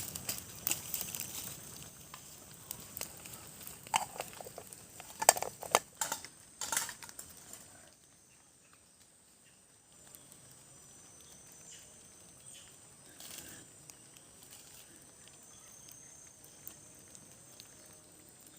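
Campfire crackling, with scattered sharp knocks and a few louder clacks of cooking gear; about eight seconds in it fades to a faint outdoor background.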